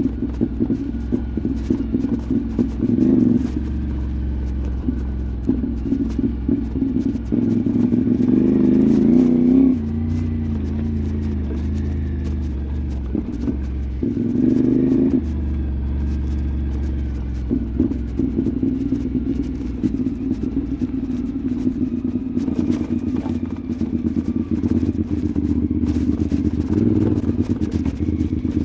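CFMoto 450MT adventure motorcycle's parallel-twin engine running as it is ridden on a forest track, the revs rising twice and falling back between steadier stretches, with a constant rattle and clatter over the rough ground.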